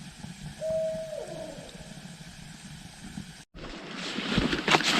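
An owl hooting once: a single drawn-out hoot that slides down in pitch at the end. After a brief break, knocks and handling noise grow louder near the end.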